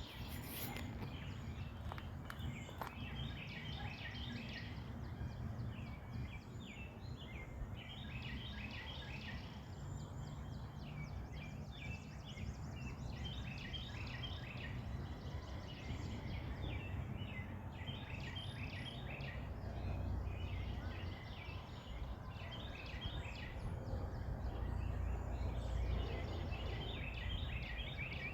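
Songbirds singing in the early morning after a storm, short phrases of quick repeated notes coming every second or two, over a steady low rumble.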